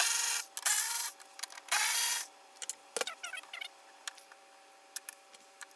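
Handling noises from car interior trim and speaker parts: two short scraping rubs in the first two seconds, then scattered small clicks and a single knock about three seconds in.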